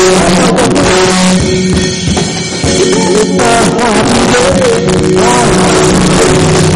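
Live church praise music: a drum kit and instruments playing with singing voices, loud and steady, easing off briefly about two seconds in.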